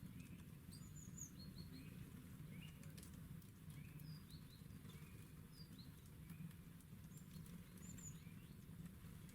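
Faint, short chirps and calls of small songbirds, scattered irregularly, over a steady low hum, with a few light clicks.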